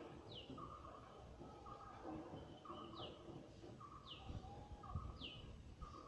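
Faint bird calls: a short steady note repeated about once a second, with a few high calls that sweep quickly downward.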